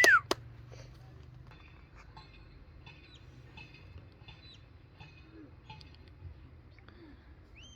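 Sheepdog handler's whistle commands. A loud whistle note falls away right at the start, then short faint whistle chirps sound over a quiet background murmur, and a rising whistle note comes near the end.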